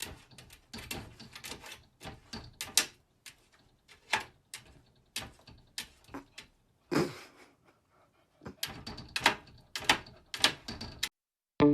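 A run of irregular sharp clicks and taps, about two dozen, spread unevenly with short quiet gaps and a denser cluster a little before the end.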